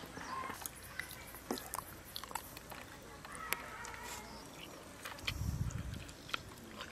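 Faint eating sounds of people eating curry and rice by hand: chewing and small mouth clicks scattered throughout, with a short low murmur about five seconds in.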